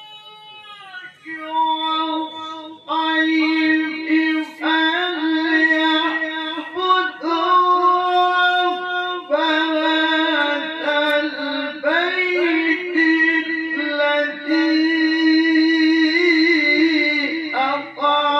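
Male qari's voice chanting Quran tilawah in the maqam style: long, ornamented melismatic phrases held on one breath. A new phrase begins about a second in.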